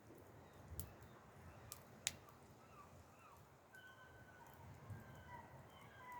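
A quiet wood campfire with a few sharp crackles in the first two seconds, the last the loudest. Faint short bird chirps in the second half.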